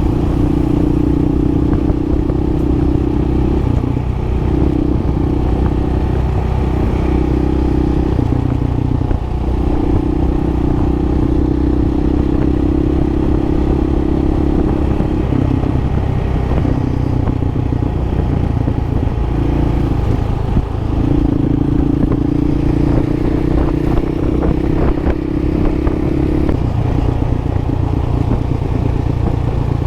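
Dual-sport motorcycle engine running under way. Its note holds steady for several seconds at a time, then breaks and shifts several times as the throttle or gear changes, with scattered rattles in the second half.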